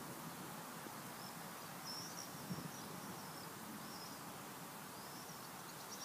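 Faint outdoor ambience: a steady low hiss, with a small bird chirping faintly several times in short high twitters.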